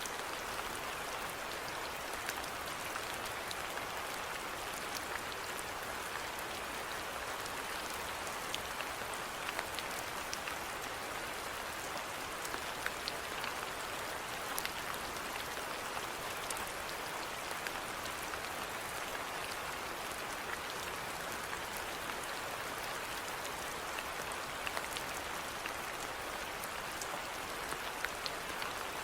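Steady rainfall, an even hiss of rain with many small drops pattering on surfaces.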